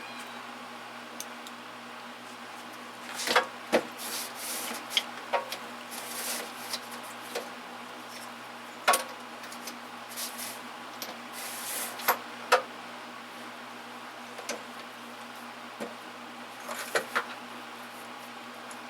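Metal hand tools (Torx bits and sockets) being handled and set down: scattered sharp clinks and short rattles, over a steady low hum.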